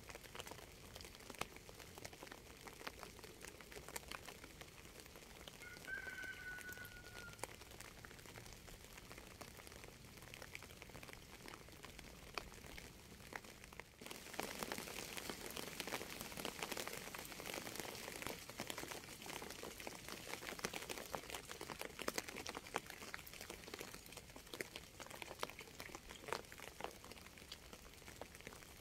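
Rain falling, with a constant patter of small drop ticks; about halfway through the rain suddenly grows louder and denser. A single short whistled note sounds about a third of the way in.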